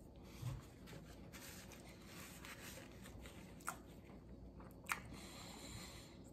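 Faint chewing as a man works through a mouthful of veggie burger, with two short sharp clicks a little over a second apart near the middle.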